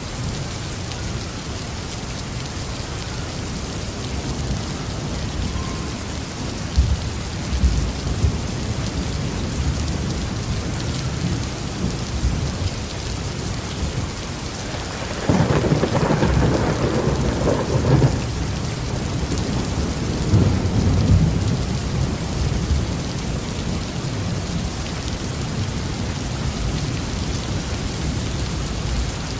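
Steady heavy rain with rolling thunder: low rumbles from about a quarter of the way in, and the loudest thunderclap about halfway through, rumbling on for a few seconds, followed by another rumble.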